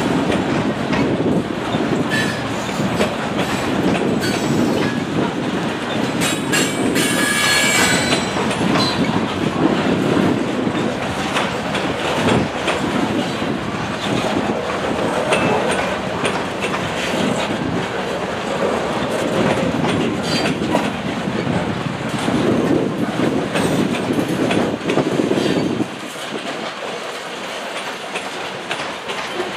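Freight train of covered hopper cars rolling steadily past, wheels clacking over rail joints with a continuous rumble and rattle. A brief high wheel squeal comes about six to eight seconds in, and the low rumble eases near the end.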